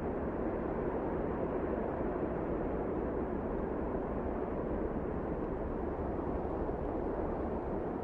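Wind blowing, a steady low rushing noise that neither rises nor falls.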